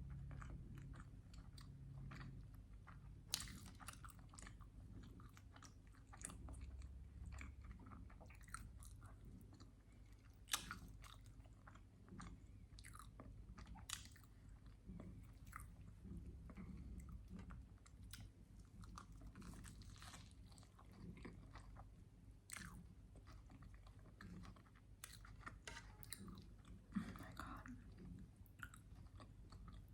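A person chewing and biting into a sandwich with syrup, close to the microphone: quiet mouth sounds with many small clicks throughout and a few sharper, louder bites.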